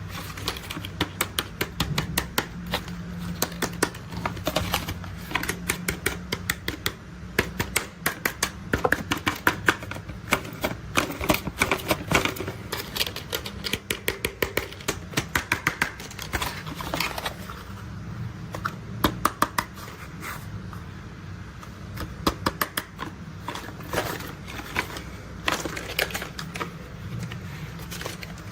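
Toy construction vehicles being tapped and handled: a rapid, irregular run of sharp clicks and rattles, thicker in places, over a low steady hum.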